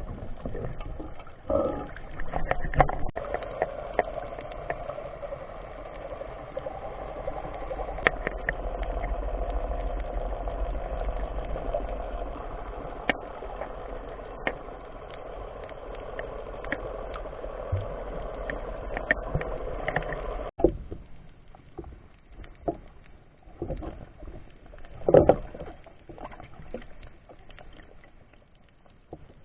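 Muffled water noise under a steady drone, with scattered clicks. About twenty seconds in it cuts suddenly to quieter water sounds with separate taps and splashes.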